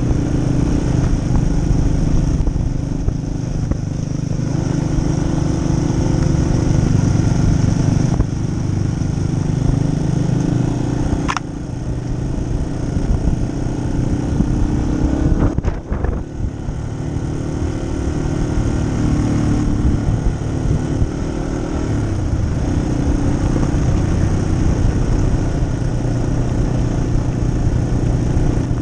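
2018 Yamaha XT250's single-cylinder four-stroke engine running while being ridden on a dirt trail, its pitch and loudness shifting with the throttle a few times, with a brief dip about halfway through.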